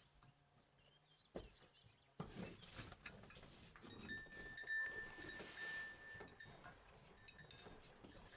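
Farm animals calling, starting about two seconds in.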